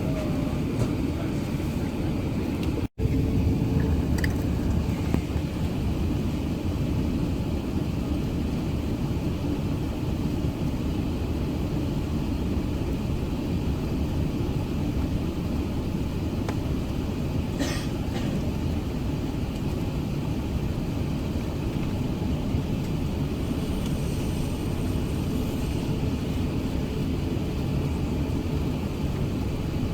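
Airbus A380-800 cabin noise: a steady, loud low rumble of the engines and rushing air heard from inside the passenger cabin. The sound cuts out completely for an instant about three seconds in, then resumes unchanged.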